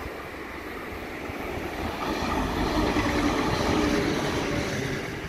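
Electric passenger train passing close by. It grows louder to a peak about three to four seconds in, then starts to fade.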